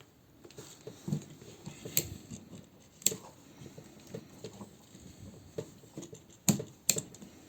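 Hard plastic action-figure parts being handled and clicked together: small taps and rattles with four sharp plastic clicks, two of them close together near the end.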